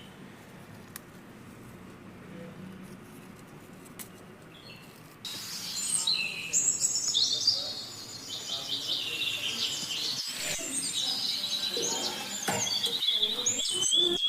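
Faint low background noise for about five seconds, then a sudden start of busy, rapid bird chirping that continues to the end.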